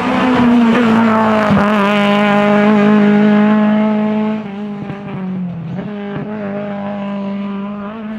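Drift car's engine held at steady high revs through a slide, with tyre squeal; loudest for the first four seconds, then a little quieter, with a few sharp cracks.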